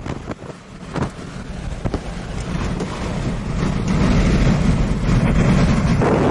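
Strong gusting wind with a heavy low rumble buffeting the microphone. It drops away suddenly at the start, with a few brief knocks in the first two seconds, then builds back up to a steady loud rush from about three seconds in.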